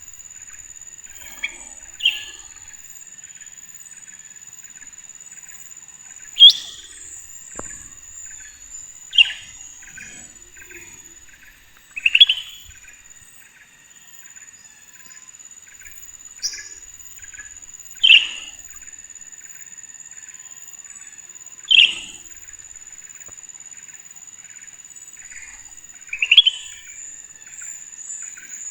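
A bird giving single loud, sharp chirps every three to five seconds, seven in all. Behind it run a steady high-pitched whine and a fast even ticking.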